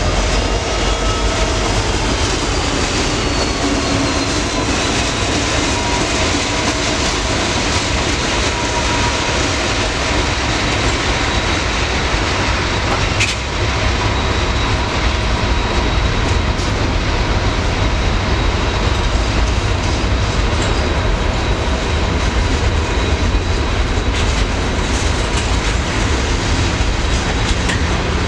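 A train rolling past, a loud, steady rumble of wheels on rail with a faint steady whine above it.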